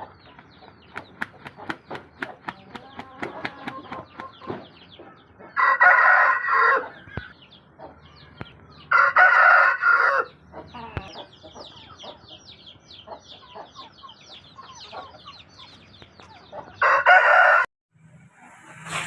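Parrot-beak aseel chickens calling: three loud, short crows, each about a second long, with many quick clucks and chirps in between.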